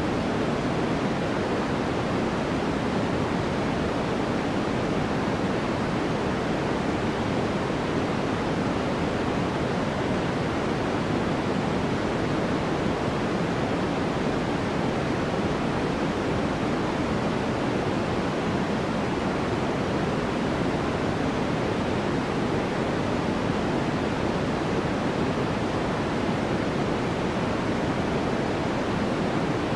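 Steady, unchanging electronic white noise played for sleep. It is a soft, deep hiss weighted toward the lows and middles, and it tapers off in the highest treble.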